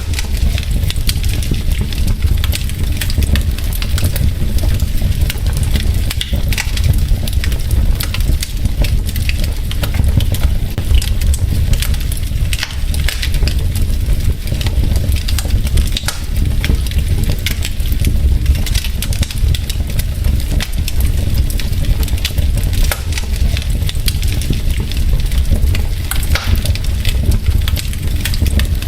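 Wood logs burning in a fireplace: frequent sharp crackles and pops over a steady low rumble of the flames.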